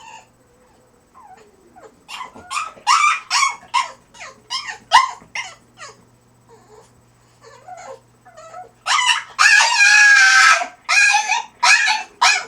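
French bulldog whining and yelping in a quick run of short, high-pitched cries. About nine seconds in comes one long, loud, drawn-out cry, followed by a few more short yelps.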